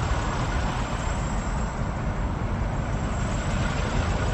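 Steady rumble and hiss of road vehicle noise, even throughout with no sudden sounds.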